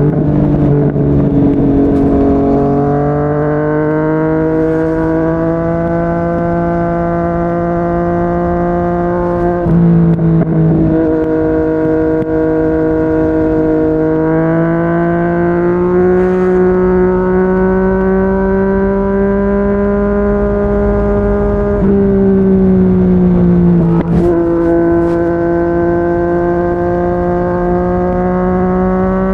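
Yamaha MT-09's inline three-cylinder engine through a Yoshimura R55 slip-on exhaust, running at speed under a rider's throttle. The note climbs slowly, then shifts in steps a few times as the gears and throttle change, over a low rush of wind and road noise.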